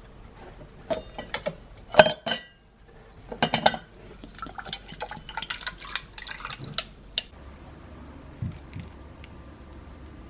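Glassware and dishes being handled: a sharp clink about two seconds in, a cluster of knocks a little later, then a run of small taps and clinks, with some liquid sounds.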